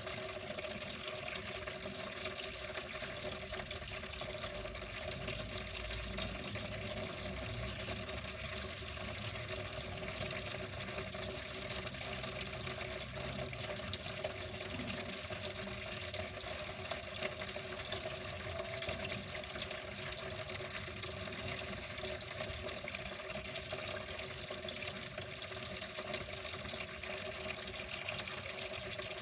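Water flowing in a steady, unbroken stream: an even splashing hiss with a faint steady ring underneath that does not change.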